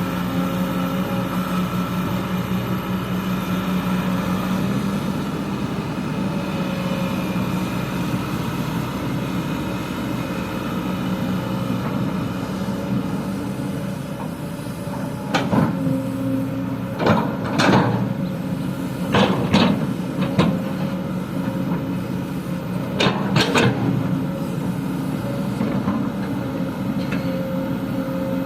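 Kobelco excavator's diesel engine running steadily. From about halfway through come a series of loud knocks and bangs, some in quick pairs.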